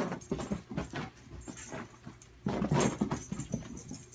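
A dog making short vocal sounds, several brief ones and then a louder run about two and a half seconds in.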